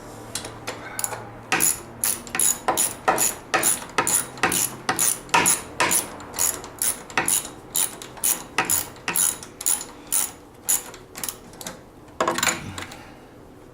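Hand socket ratchet clicking in a steady run of strokes, about two to three clicks a second, as a suspension bolt is turned out; a louder clatter near the end.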